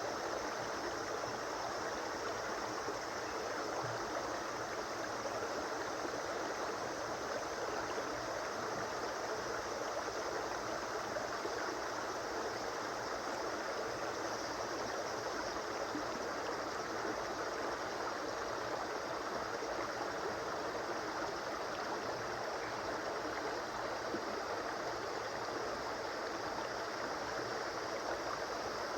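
A river or stream flowing steadily over rocks, a continuous rushing and gurgling of water with no change in level.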